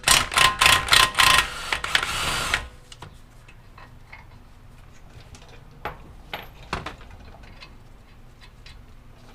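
Impact wrench taking the outer tie rod end nut off the spindle: several short trigger bursts, then a steady run of about a second that stops about two and a half seconds in. A few light metallic clicks follow.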